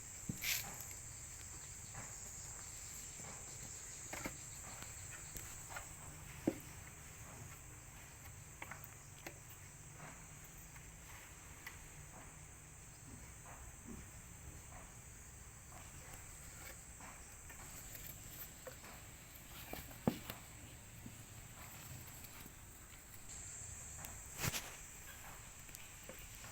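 Faint steady high-pitched insect trill, with scattered light taps and clicks, a couple of them sharper.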